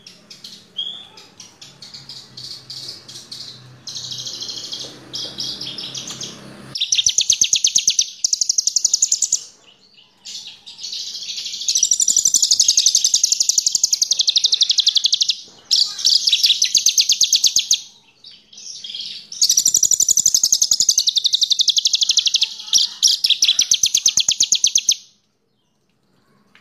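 Javanese bush lark (branjangan) singing: scattered chirps at first, then long, fast, high trilling phrases several seconds each with short pauses between, cutting off suddenly near the end.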